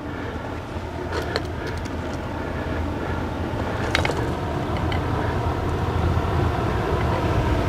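A steady low rumble that slowly grows louder, with a few light clicks and knocks about a second in and again around four seconds in, as PVC pipe fittings are handled and fitted together.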